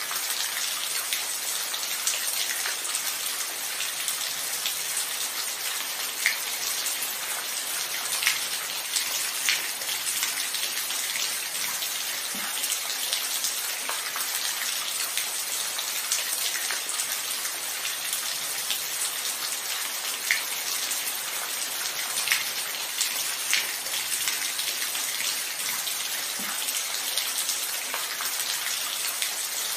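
Steady rain falling, an even hiss with scattered sharper taps of single drops landing close by.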